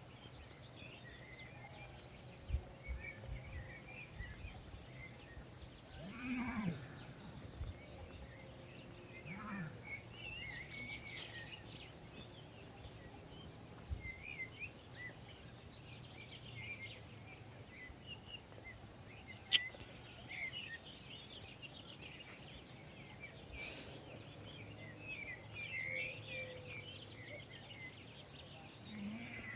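Small birds chirping throughout, with sheep bleating briefly twice, about six seconds in and again near ten seconds.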